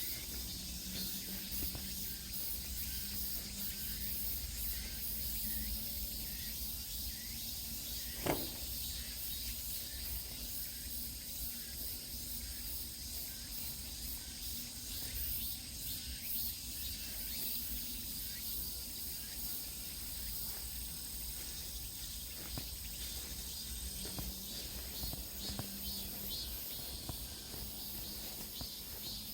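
Late-summer insect chorus, crickets among them, chirping steadily and high-pitched over a low outdoor rumble, with one sharp click about eight seconds in.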